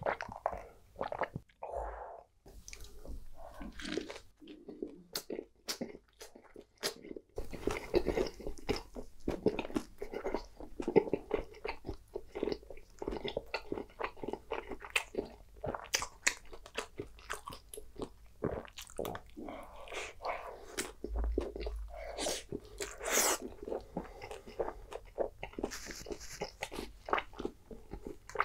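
Close-miked eating sounds of a person biting into and chewing a soft-shell taco, a dense run of small clicks and smacks. There are a few swallows of a drink near the start.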